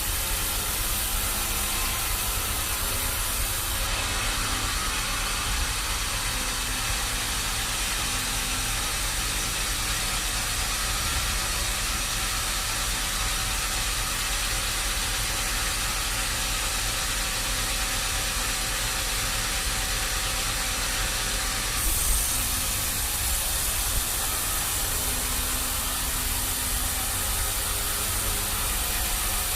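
Sawmill machinery running steadily: a low engine rumble under a constant hiss. The highest part of the hiss thins out about four seconds in and returns with a brief bump about three quarters of the way through.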